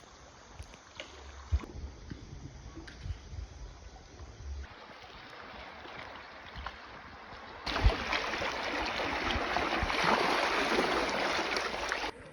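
Water rushing and splashing around a bamboo raft on a river, with a few low thumps; the sound changes abruptly several times and is much louder and fuller from about eight seconds in.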